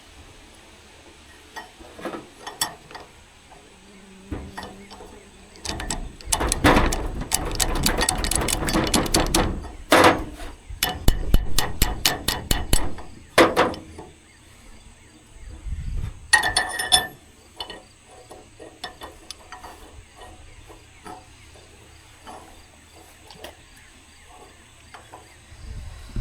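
Hammer blows on metal as a new bearing is driven onto the drive shaft of a Hesston haybine. A fast run of strikes lasts several seconds in the middle, and a short ringing metallic clink follows a few seconds later.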